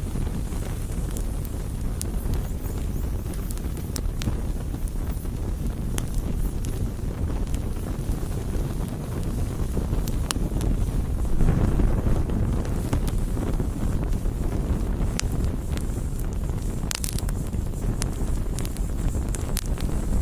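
Bonfire crackling: many scattered sharp pops and snaps of burning wood over a steady low rushing noise that swells a little about halfway through.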